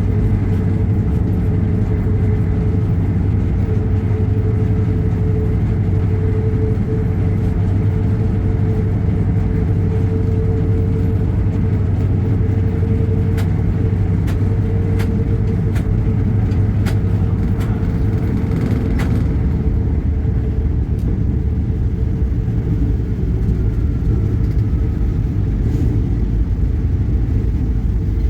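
Vehicle engine running steadily under way: a continuous low drone with a held hum above it, and a few light clicks around the middle.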